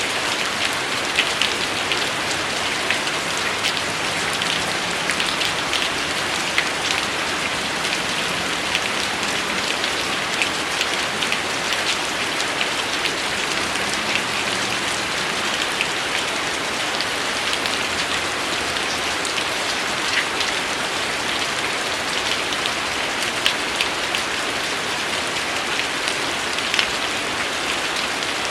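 Steady rain falling, a continuous hiss with many individual drops tapping sharply on a surface.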